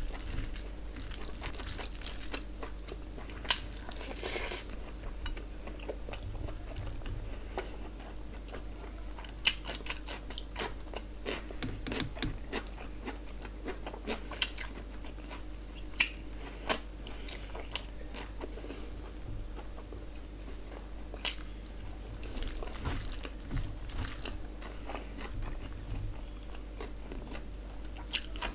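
Close-miked eating sounds: a person chewing and biting mouthfuls of rice and curry, with wet mouth noises and irregular sharp clicks and crunches. A faint steady low hum runs underneath.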